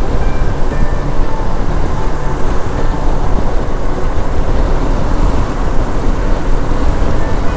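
Wind buffeting the microphone at highway speed over the running engine and tyre noise of a Honda NX500, a parallel-twin motorcycle.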